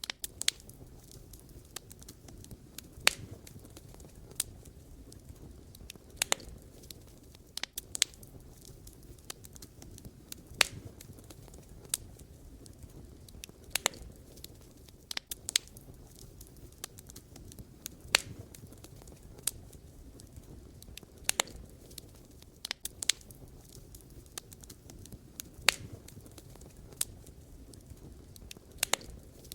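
Wood fire burning: firewood crackling with irregular sharp pops over a low steady rumble of flame, a few pops much louder than the rest.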